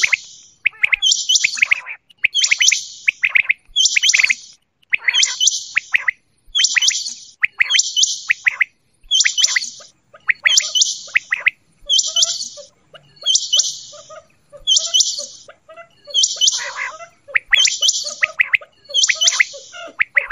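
Quail calling over and over, a high chirping call repeated about once a second in an even rhythm.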